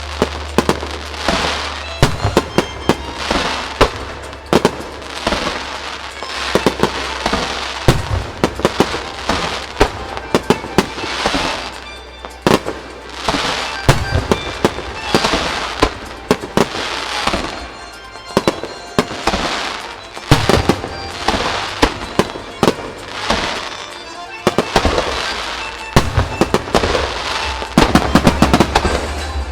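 Aerial fireworks bursting in rapid, continuous succession, many sharp bangs a second or so apart and often clustered, with a rumbling wash between them.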